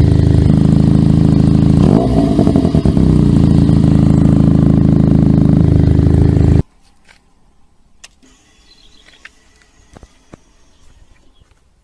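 Benelli TNT300 parallel-twin engine through a loud aftermarket exhaust, idling with a short blip of the throttle about two seconds in. The sound stops abruptly about two-thirds of the way through, leaving only faint clicks.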